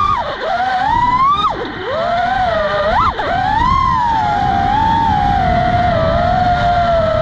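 6-inch quadcopter's motors whining, the pitch swooping up and down sharply with throttle changes a few times in the first three seconds, then holding steadier. Wind rumbles on the microphone underneath.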